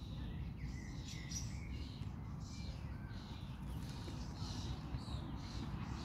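Birds chirping: short, high calls repeating throughout, over a steady low rumble.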